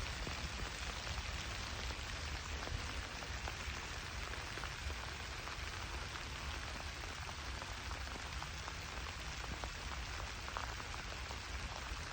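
Steady rain falling, an even hiss with scattered drops ticking close by and a low rumble underneath.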